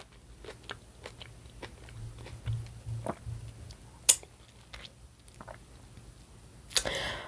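A person chewing a mouthful of food close to the microphone, with small wet mouth clicks and a sharper click about four seconds in.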